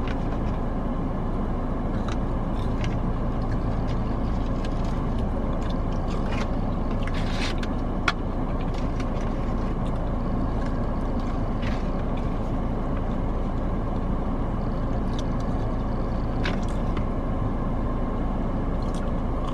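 Steady rushing hum of a car's air conditioning and idling engine inside the cabin, with a few faint clicks.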